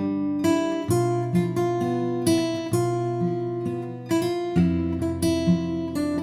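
Background music: acoustic guitar plucking and strumming chords, each note ringing and fading.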